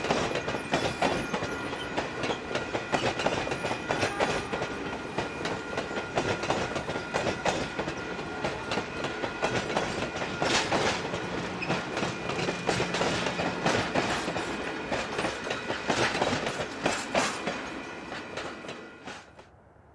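Passenger coaches of a passing train rolling by, their wheels clicking over the rail joints, with a faint steady high ringing. The sound fades away near the end as the train moves off.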